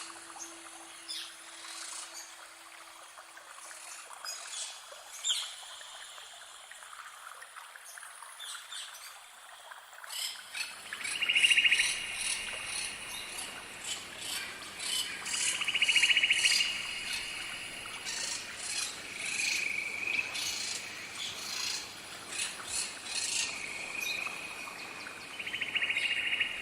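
Birds chirping with scattered short calls. From about ten seconds in, a buzzy trill comes back about five times, each lasting a second or two.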